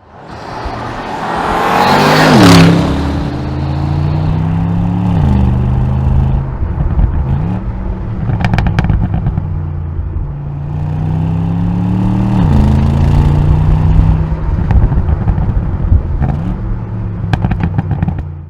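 Bentley Continental GT S's twin-turbo 4.0-litre V8 through its sports exhaust, accelerating hard. The engine note climbs and drops sharply at each upshift, several times. There is a loud close pass about two and a half seconds in, and short bursts of crackle about halfway through and near the end.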